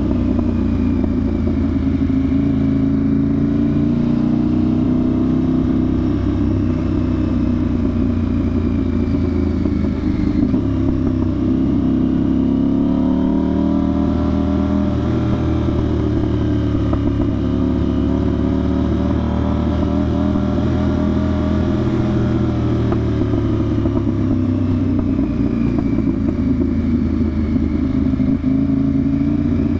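KTM 990 Duke's parallel-twin engine running through a budget aftermarket exhaust with the silencer box removed, as the bike cruises. The engine note holds steady, with its pitch rising and falling gently a couple of times as the throttle changes.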